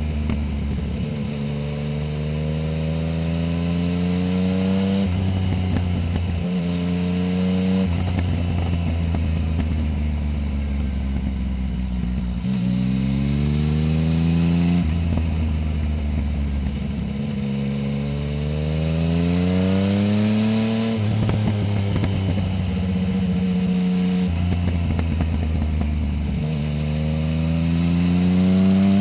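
Yamaha Tracer 900 GT's three-cylinder engine through a full Roads Italia exhaust with no dB-killer, heard from under the seat while riding. It accelerates several times, the pitch climbing and then dropping sharply at each upshift, with steadier stretches between the pulls.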